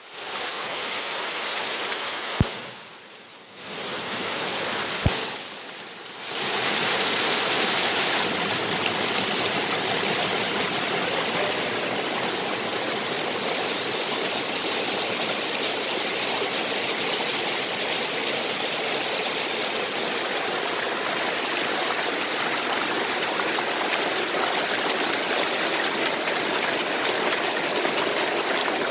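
Water of a stream and waterfall rushing in a steady hiss. In the first few seconds the sound dips twice, each time with a sharp click, then runs on evenly.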